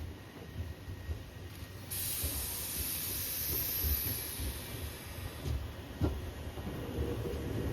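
Tobu Railway train, an 850-type set with a 100-series Spacia, running past with a low rumble. A sharp high hiss comes in suddenly about two seconds in and dies away after about three and a half seconds. There is a short knock near the six-second mark.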